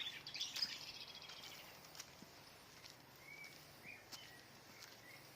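Small birds chirping, faint: a quick run of high chirps in the first second and a half, then a few short separate whistles.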